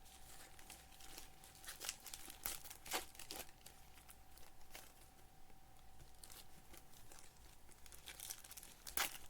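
Foil trading-card pack wrappers crinkling and tearing as packs are opened and cards handled: a string of short, irregular crackles and rustles.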